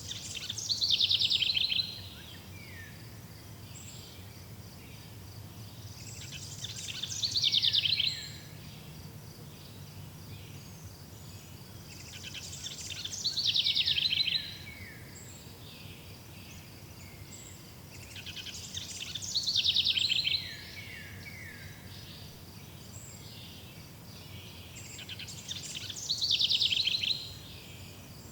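A songbird singing the same song phrase five times, about every six seconds: each phrase swells into a fast trill and ends in a few falling notes. A faint steady high-pitched chirring of insects runs underneath.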